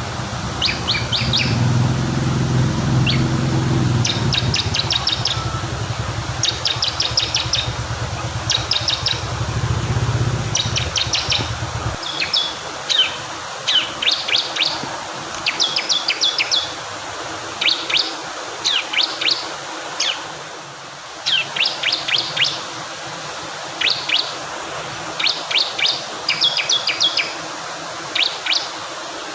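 Bar-winged prinia (ciblek kristal) singing: short bursts of rapid, high, clipped notes, about one burst a second, over a steady hiss of rushing water. A low rumble under the first part stops abruptly about twelve seconds in.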